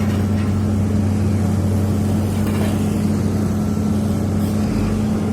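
Heavy diesel engine of road-paving machinery running steadily at a constant speed, with a steady low hum.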